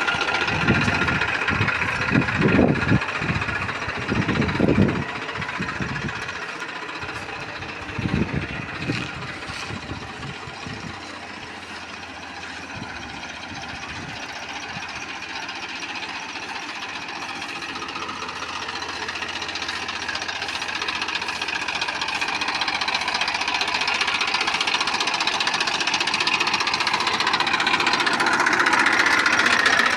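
TAFE Massey Ferguson 1035 DI tractor's three-cylinder diesel engine running, with a few low thumps in the first several seconds. It grows steadily louder over the second half.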